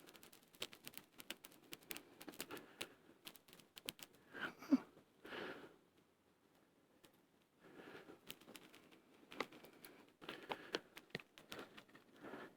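A small kindling fire of birch bark and twigs crackling faintly with many small sharp pops, joined several times by short breathy puffs.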